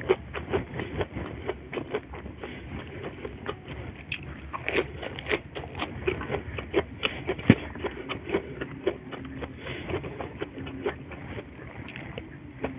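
Close-miked chewing of rice and chilli-sambal shrimp eaten by hand, with many short, irregular wet mouth clicks. Near the end there is a bite into a raw tomato slice.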